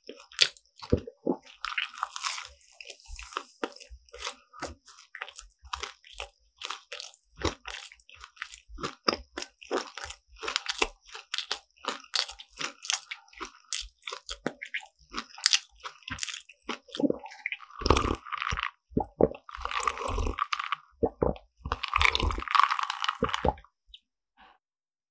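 Crisp croffles (croissant waffles) being bitten and chewed close to the microphone: rapid crackling crunches of the flaky, caramelised crust with soft, wet chewing between bites. The crunching grows denser and louder in three bursts near the end, then stops.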